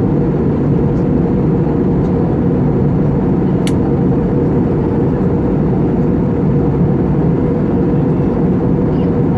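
Steady cabin noise of a Vueling Airbus A320-family airliner in flight: a dense, even low rumble of engines and airflow, with one brief click just before the middle.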